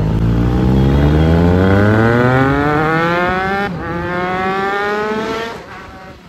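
Motorcycle engine accelerating, its pitch climbing steadily for about five seconds, with a brief break about three and a half seconds in before it climbs again, then dropping away near the end.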